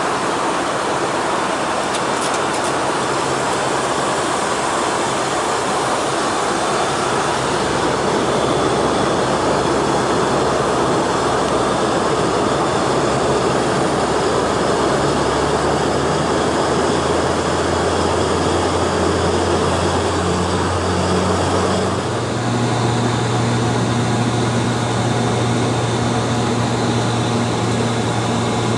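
Steady cabin noise of a Hawker 800 business jet in flight: airflow rushing past the fuselage over the drone of its engines. The low drone steps up in pitch about two-thirds of the way through.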